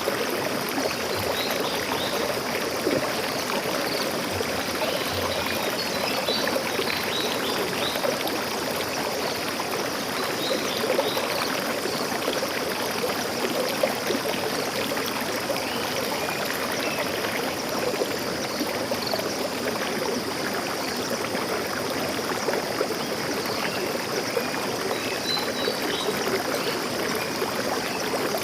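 Forest stream flowing steadily over rocks, with a constant rushing and trickling, and faint high bird chirps now and then.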